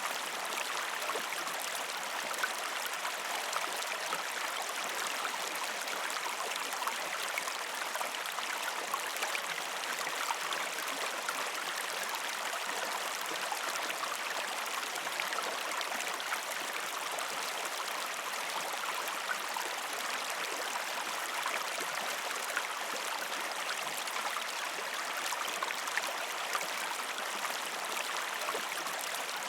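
A gentle river stream flowing over rocks: a steady rush of water with small splashes and gurgles all through.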